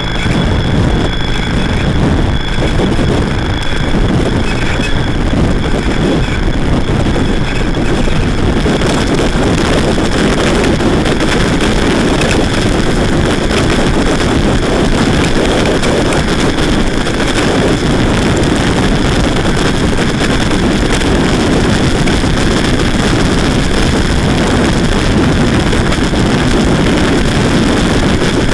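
Noise music: a loud, steady wall of distorted drone and hiss, heaviest in the low rumble. A thin high tone fades out in the first few seconds, and the noise grows brighter about eight seconds in.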